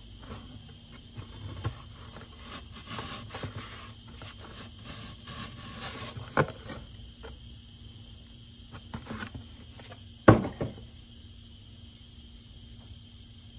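Freshly sharpened axe edge cutting cardboard: a run of light scraping, crackling cuts, a sharper snap about six seconds in, and a loud knock about ten seconds in.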